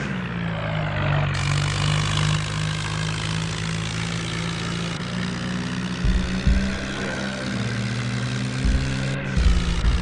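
Tractor diesel engine running steadily, with a few heavy low thumps about six seconds in and again near the end.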